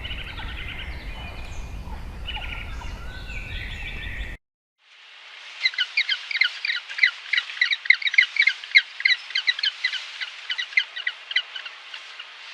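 Birds calling over a low rumble, then after a brief break of silence about four seconds in, a rapid chattering bird call repeated about five notes a second for several seconds before fading.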